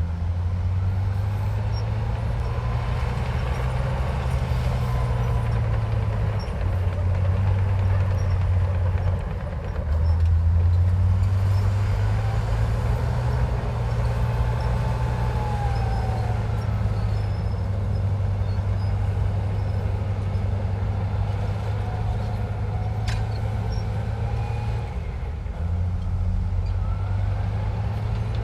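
Komatsu bulldozer's diesel engine working under load, its pitch and level shifting several times as the load changes, with faint high squeals that waver in pitch now and then.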